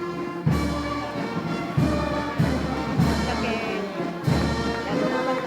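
Procession band playing a slow march: held brass chords with loud drum strokes about every second.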